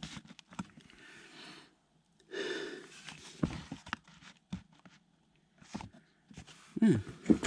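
Scattered knocks and scrapes of a pine board being handled and fitted into place, with a couple of breathy exhalations and a short grunt near the end.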